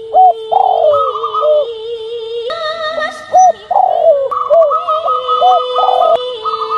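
Zebra dove (perkutut) cooing, a repeated song of rolling trills and short rising-and-falling notes.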